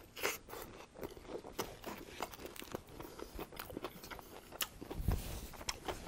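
Biting into a BLT sandwich with bacon and avocado, then chewing close to the microphone with many small, sharp clicks. Near the end a cloth is rubbed over the mouth.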